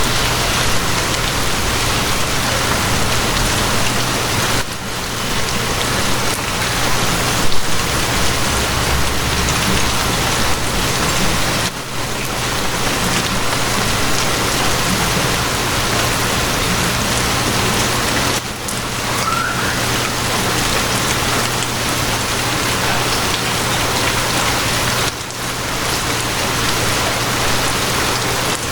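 Steady heavy rain hissing over a low, constant hum. The rain briefly dips about every seven seconds.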